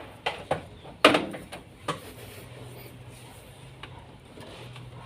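A few sharp knocks and clatters of hard parts being handled, the loudest about a second in, followed by a faint steady low hum.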